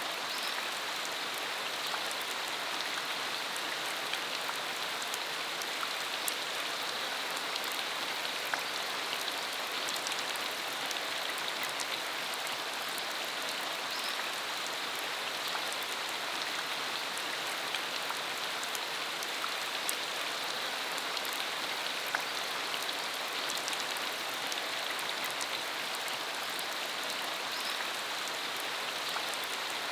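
Steady rain falling on a dirt road, an even hiss with many scattered individual drop ticks.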